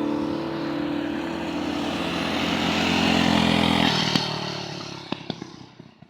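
Engine noise of a vehicle passing by. Its steady drone stops about four seconds in, and what remains fades away over the last two seconds, with a few faint clicks.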